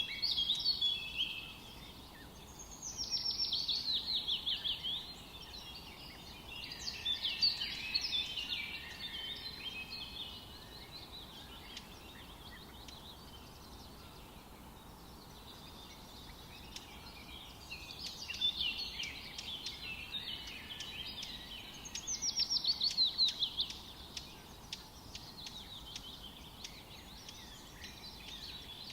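Forest songbirds singing: about five phrases of rapid chirps and quick trills with falling notes, each a second or two long with pauses between, over a faint steady hiss of forest ambience.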